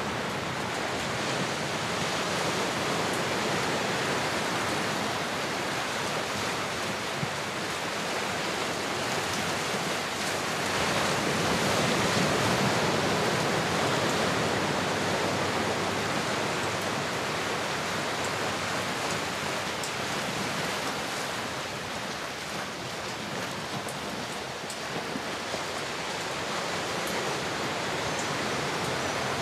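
Ocean surf: a steady wash of waves that swells slowly to a peak about halfway through, then eases off.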